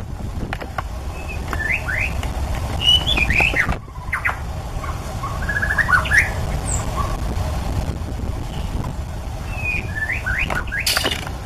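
White-rumped shama singing in short bursts of quick whistled phrases, the notes sliding up and down. A steady low rumble runs underneath.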